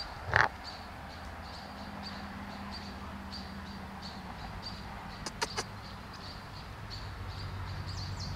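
A bird chirping over and over, short high chirps about twice a second, over a steady low hum. A brief loud noise comes about half a second in, and a few sharp clicks come around five seconds in.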